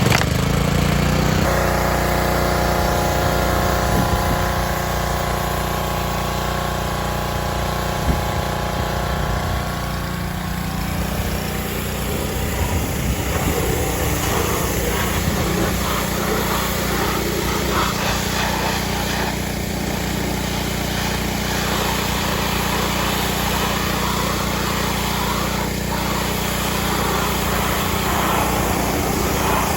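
Gas pressure washer's small engine running steadily. From about ten seconds in, a noisier rushing sound rides over it.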